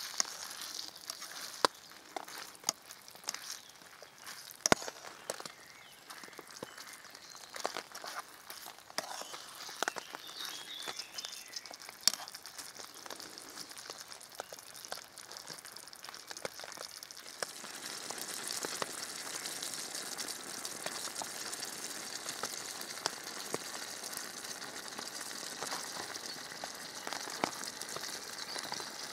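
Food frying, with scattered sharp pops and crackles over a faint sizzle. About 17 seconds in, the sizzling hiss swells and stays steady.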